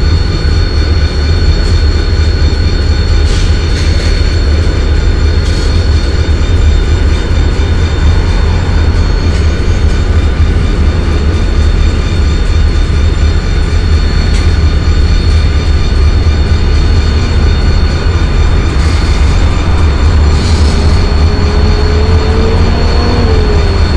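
Freight train cars rolling slowly past on the track below: a loud, steady low rumble with a thin, steady high tone over it.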